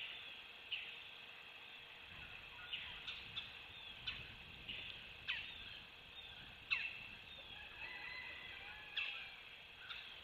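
Wild birds calling outdoors: about a dozen short, sharp down-slurred chirps at irregular intervals over a steady background hiss, with a faint warbling song near the end.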